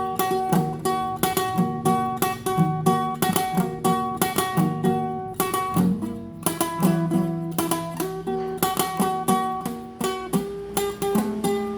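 Solo classical guitar playing a fast tremolo passage: rapid repeated plucked notes over a moving bass line.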